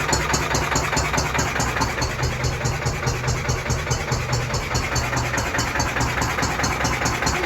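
Lister CS stationary diesel engine running steadily, with a fast, even beat. The owner says it is losing a lot of compression through the crankcase door and puts this down to worn piston rings.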